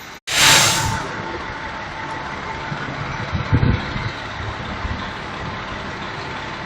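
Fire engine running steadily, with a loud short hiss about half a second in.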